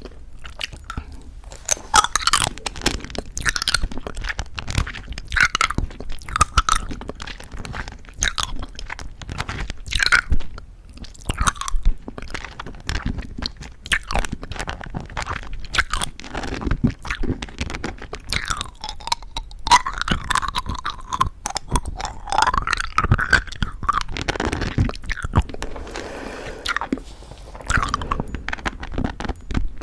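Plum Happy Jelly chewy candy with a crisp sugar coating being chewed close to the microphone: dense, irregular crunches mixed with wet chewing.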